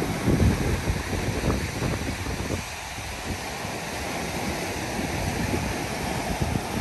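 Ocean waves washing ashore, with wind buffeting the microphone in gusts over the first couple of seconds before the surf settles to a steadier hiss.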